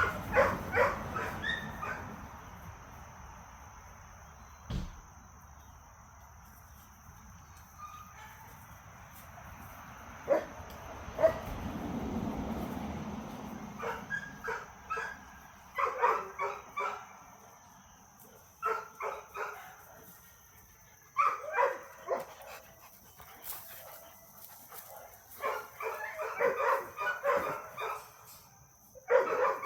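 Dogs barking and yipping in rapid runs of short barks, coming in several bouts with quieter gaps between them; the barking belongs to dogs at play.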